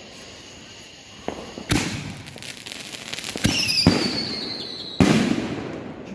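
5-inch canister firework shells going off: a loud boom about two seconds in followed by crackling, another bang at about three and a half seconds followed by high falling whistles, and a third loud boom at about five seconds.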